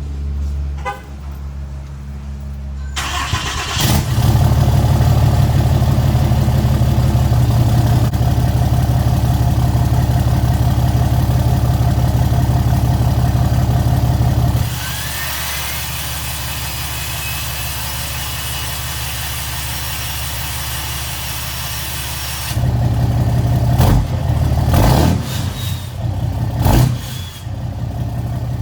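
A 6.7-litre Cummins turbo-diesel starts up through a new 5-inch exhaust, running loud and steady, then idling, with a few short revs near the end.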